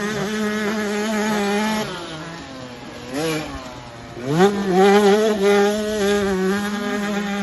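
Mini motocross bike engine running at high revs, easing off about two seconds in, a short blip of the throttle, then revving back up and holding high revs from about four seconds in.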